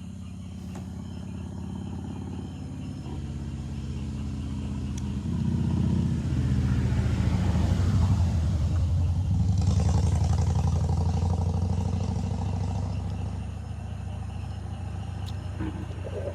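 A motor vehicle's engine running, with a low steady drone that swells over several seconds, is loudest around the middle and then eases off, as when a vehicle drives close by or pulls up.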